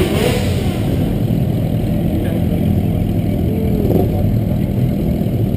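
Car engine idling steadily, its sound sitting low.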